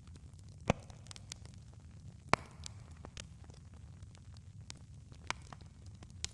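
Wood campfire crackling: irregular sharp pops and snaps, two louder ones about a second and two seconds in, over a low steady rumble.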